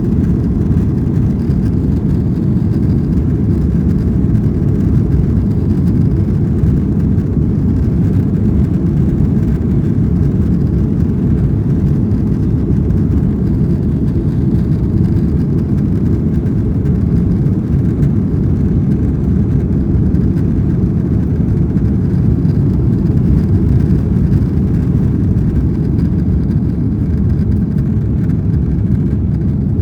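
Airbus A330-300 with Rolls-Royce Trent 700 engines during take-off: a loud, steady low rumble of engine and airflow noise that holds even throughout.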